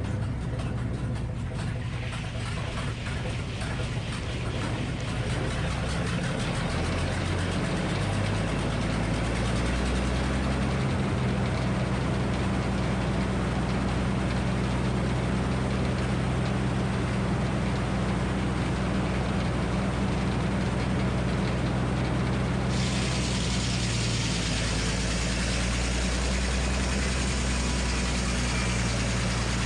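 Minneapolis Moline HEB 605 cubic inch engine running the sawmill at a steady speed, its pitch shifting for the first several seconds and then holding steady.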